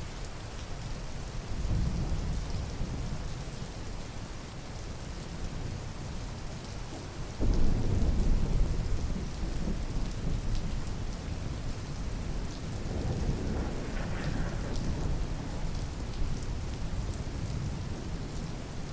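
Steady rain falling, with rolls of thunder rumbling over it; the loudest roll starts suddenly about seven and a half seconds in, with weaker rumbles before and after.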